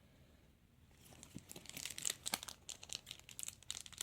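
Trading card pack wrapper crinkling and tearing as it is opened, a rapid crackle that starts about a second in.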